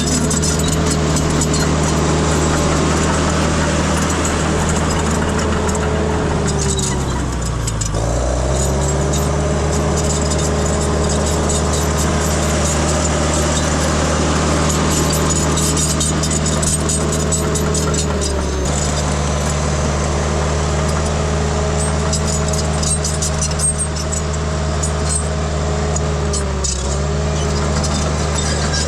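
Heavy earthmoving machine's engine running steadily, its pitch sagging briefly and recovering three times, as when the engine is pulled down under load.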